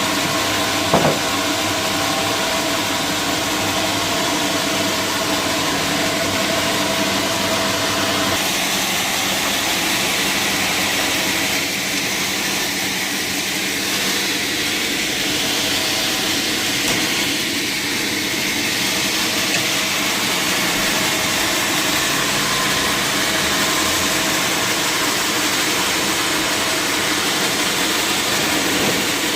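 Sawmill machinery running steadily, a loud continuous hum and hiss. A sharp knock comes about a second in, and around eight seconds in the hum thins as the hiss grows.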